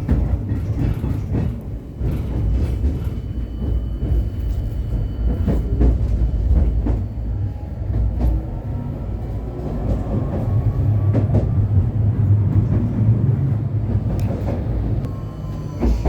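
Vityaz-M low-floor tram running on its rails: a steady low rumble, with the wheels clicking over rail joints now and then. Near the end a whine from the drive falls in pitch as the tram slows.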